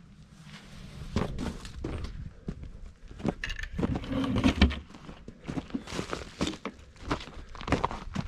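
Someone moving about and handling things: irregular footsteps, knocks and clunks, with a louder cluster of clattering about four to five seconds in.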